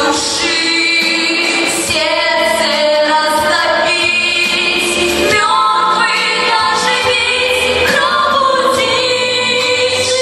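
Song with voices singing a melody in long held notes, over musical accompaniment.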